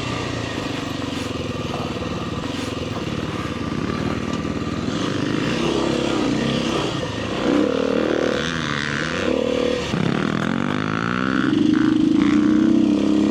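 Kawasaki KLX300R dirt bike's single-cylinder four-stroke engine under way on a trail, its revs rising and falling repeatedly with the throttle, then held higher and steadier near the end.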